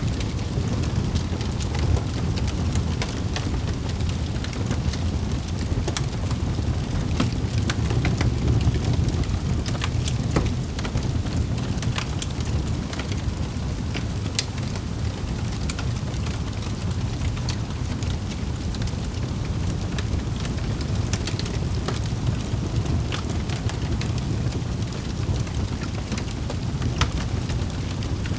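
Wood fire crackling in a fireplace: scattered sharp pops and snaps over a steady low rush.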